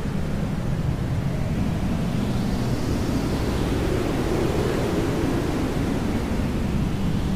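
Hair dryer blowing: a steady, dense rushing noise, heaviest in the low range, that swells slightly and eases back about three seconds in and again near the end.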